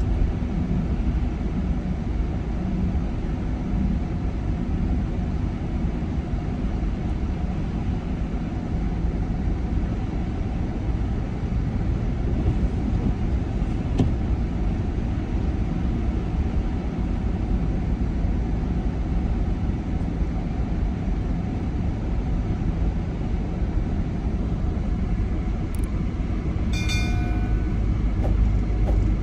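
Steady low rumble of a car driving on the road, with engine and tyre noise. A short pitched tone sounds briefly near the end.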